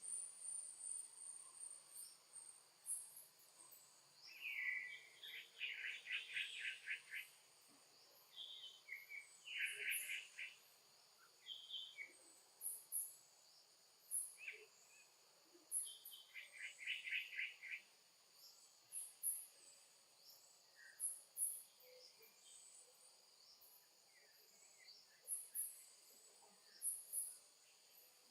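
Steady high-pitched drone of insects, with several bursts of rapid, pulsed chirping calls, the longest a couple of seconds in the first half and near the middle, and short high chirps scattered throughout.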